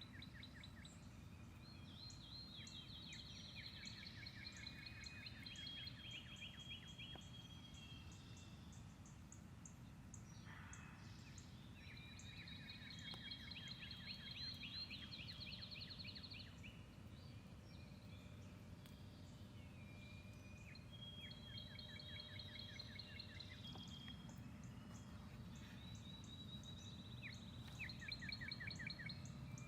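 Several songbirds singing: rapid trills, quickly repeated chips and short clear whistles, overlapping and coming and going, over a faint steady low outdoor rumble.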